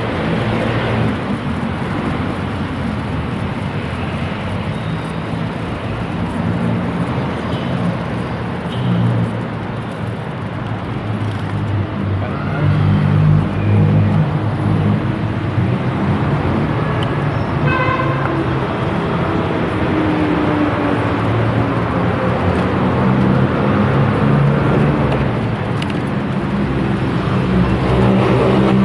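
Rumbling wind and road noise on the microphone of a camera riding along on a bicycle, with passing traffic. A short pitched tone sounds about eighteen seconds in.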